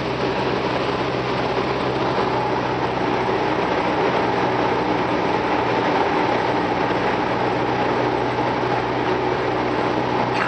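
Steady drone of a light single-engine piston airplane's engine and propeller, heard from inside the cockpit with a constant rush of noise and a low hum.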